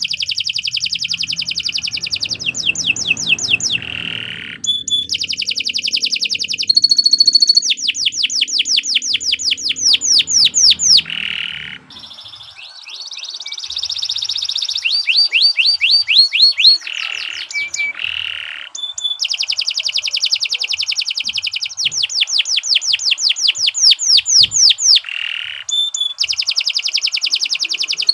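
Domestic canary singing long, continuous phrases of fast trills: rapidly repeated high notes, with the song changing from one trill to another and a few short breaks.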